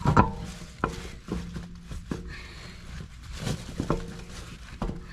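Irregular metal clanks and knocks, about seven over a few seconds, several ringing briefly: tools and brake parts being handled during brake rotor work on a car.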